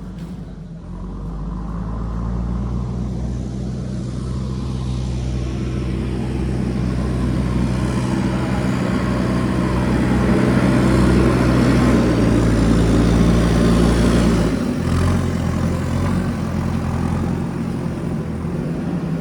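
JCB backhoe loader's diesel engine working hard, its revs and loudness building steadily. About fifteen seconds in, the engine note drops suddenly to a lower, steady pitch.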